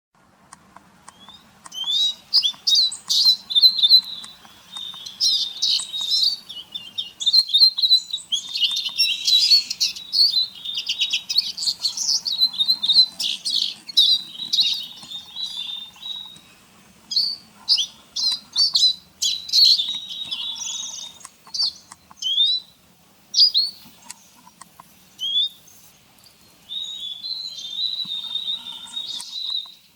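Small songbirds twittering and chirping: a dense run of quick, high calls in clusters with short gaps.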